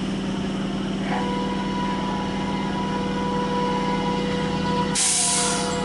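Electric train running on the line: a steady low hum, with a faint steady whine coming in about a second in and a short burst of hiss near the end.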